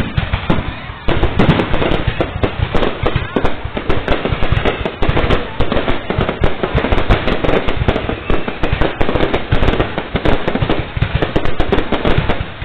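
Fireworks display going off in a dense, continuous barrage of bangs and crackles, many per second.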